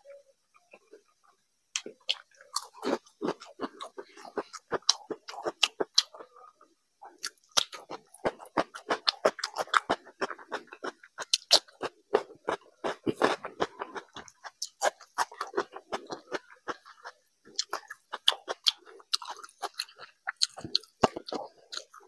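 Close-miked chewing and crunching of crisp fried papad, a quick run of small crackles and wet mouth sounds that starts about two seconds in.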